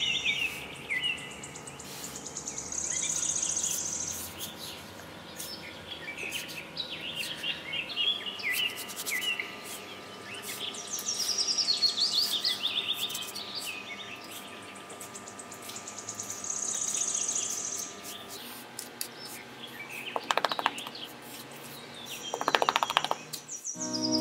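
Small birds chirping and twittering in repeated high phrases every few seconds, over short scrapes and clicks of a small metal trowel digging into damp sand, with a couple of louder rasping scrapes near the end.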